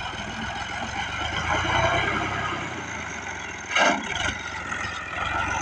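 Fiat 480 tractor's diesel engine running steadily, swelling slightly about two seconds in. A brief loud knock comes just under four seconds in.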